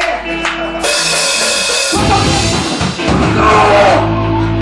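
Live rock band with a drum kit playing: a crash of cymbals about a second in, then a run of heavy drum hits, settling into a held low bass note near the end.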